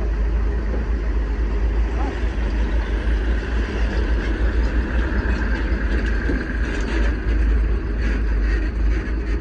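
An engine running steadily with a deep, continuous rumble.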